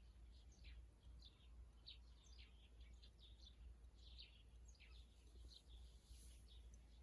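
Faint chirping of small birds: many short, high calls in quick succession, over a low steady rumble.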